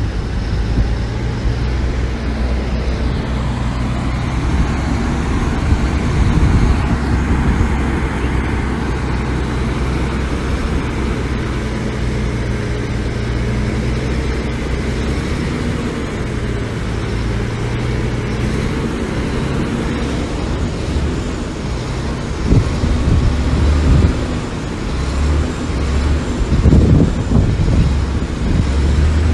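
Heavy diesel engines of earthmoving machinery running steadily, with a low engine hum throughout, turning louder and more uneven with knocks in the last several seconds.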